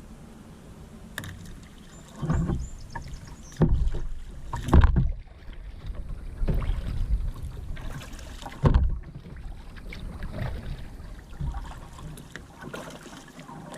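Kayak paddle strokes dipping and splashing in river water at an uneven pace, with several sharper, louder splashes or knocks about four, five and nine seconds in.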